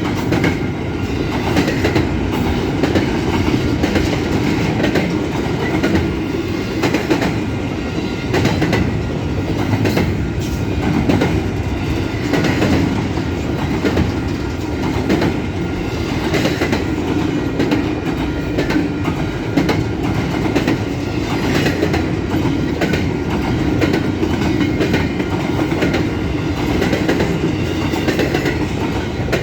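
Long freight train's cars rolling past close by: a steady rumble with wheels clicking rapidly and unevenly over the rail joints.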